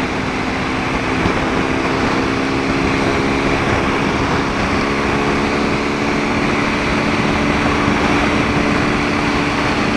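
BMW R1250 GS Adventure's boxer-twin engine running at a steady cruise, with wind and road rush over it.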